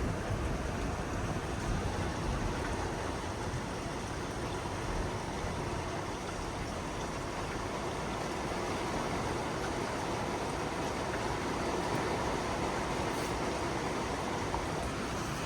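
Steady downpour of thunderstorm rain with gusting wind, a continuous even rush of noise.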